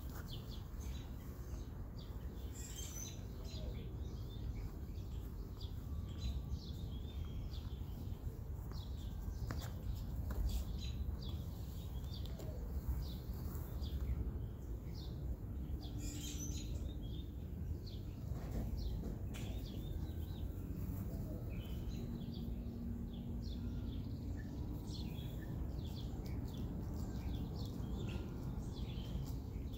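Small birds chirping and calling: many short, high chirps scattered throughout, over a steady low rumble.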